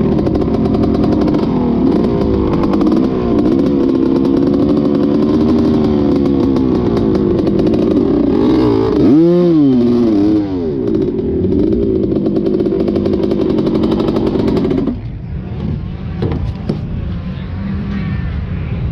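Dirt bike engine running under throttle on the track, its pitch wavering as the throttle is worked, with a sharp rev up and back down about halfway through. About three-quarters of the way in the engine note suddenly drops away, leaving a weaker, rougher sound, just before the rider finds the bike has a problem.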